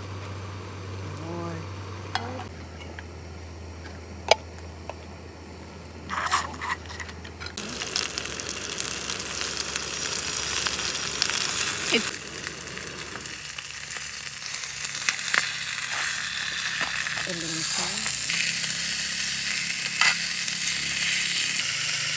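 Leftover adobo sizzling in a small pan on a portable butane camp stove, a steady frying hiss that starts about seven or eight seconds in. Before it there is a quieter stretch with a few sharp clicks.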